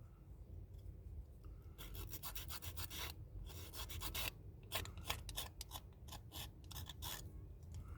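Rapid rubbing strokes on a craft piece, in three runs of quick back-and-forth strokes with short pauses between.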